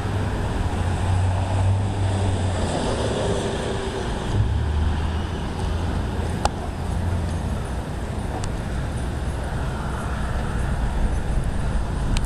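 Steady rushing storm wind with an uneven low rumble of gusts buffeting the microphone, and a couple of faint clicks partway through.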